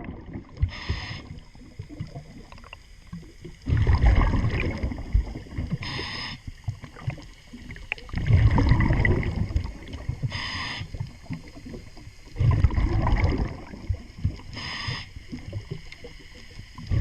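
Scuba diver breathing through a regulator underwater: a short hissing inhale, then a longer, louder rush of exhaled bubbles, repeating about every four and a half seconds.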